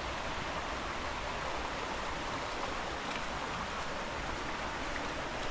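Steady rushing of a waterfall and its stream, an even hiss of falling water with no change in level.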